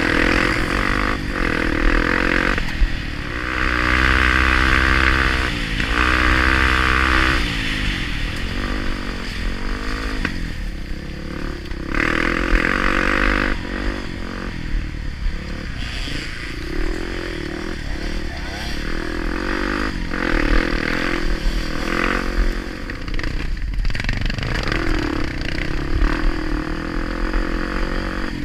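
Honda Tornado 250 single-cylinder four-stroke trail bike engine running under load, its pitch rising and falling again and again as the throttle is worked, with the strongest revving about four and six seconds in. Scattered knocks and clatter sound over it.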